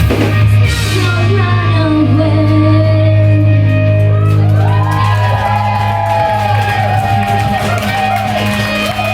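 Live rock band playing: bass and guitar hold sustained notes under a cymbal crash at the start. A singer comes in with wavering held notes about halfway through.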